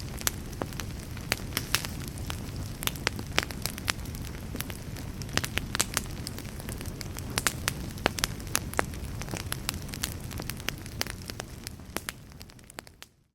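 Burning logs in a fireplace crackling, with frequent sharp, irregular pops over a steady low rumble of the flames. The sound fades away in the last second or so.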